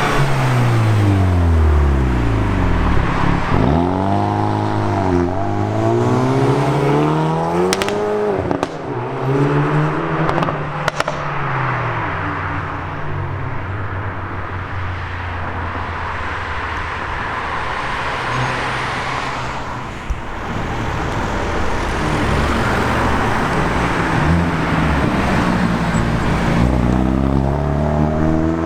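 Hyundai i30N's turbocharged four-cylinder engine revving up and down, with a few sharp exhaust pops about a third of the way in. It then settles to a steadier low running note before the revs climb again near the end.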